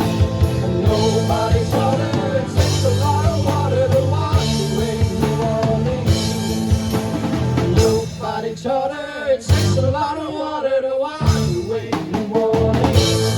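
Rock band playing an instrumental break with drum kit, bass and a wandering melodic lead line. The bass and drums drop back for a couple of seconds about two-thirds of the way through, then come back in.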